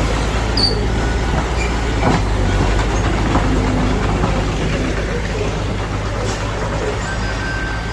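Diesel engine of a Mitsubishi BD2F crawler bulldozer running steadily under load while it works, with a few metallic knocks from the machine.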